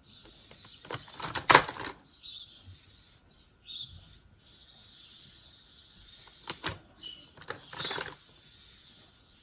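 Vintage fountain pens clattering against one another and the plastic tub as a hand rummages through them: a burst of clicks and knocks about a second in, and another from about six and a half to eight seconds.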